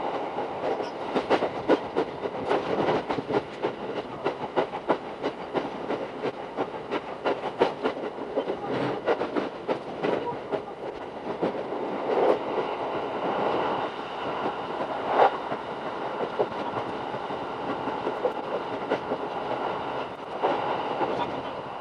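Running sound of a Shinano Railway SR1-series electric train heard from inside the car: a steady rumble with wheels clicking over the rails many times a second, and a few louder knocks.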